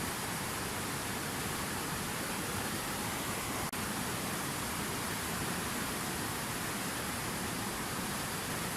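Water from a fountain waterfall pouring steadily, an even rushing hiss, broken by a split-second dropout a little before halfway through.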